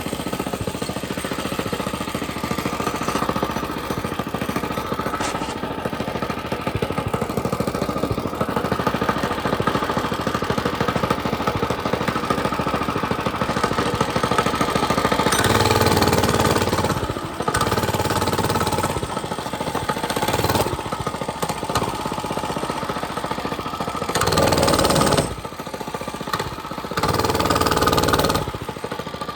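Mini bike's small engine running, getting louder several times in the second half as the throttle is opened.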